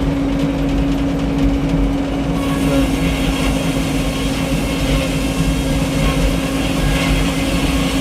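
Engine powering a Frick circular sawmill running at a steady speed, a constant low hum with overtones; about two seconds in, a higher hiss joins it.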